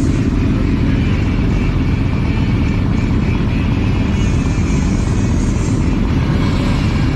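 Steady road and wind rumble from riding on a motorcycle, with engine noise running underneath, loud and unbroken.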